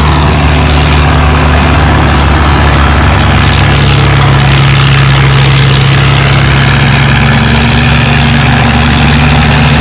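Antique farm tractor engine running steadily under load, pulling a weighted sled.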